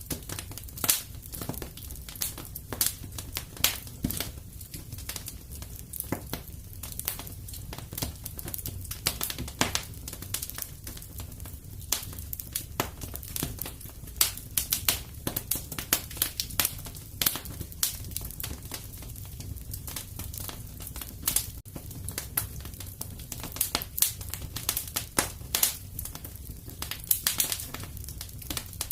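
Wood fire crackling and popping in a fireplace: a dense run of irregular small snaps and pops over a low, steady rumble.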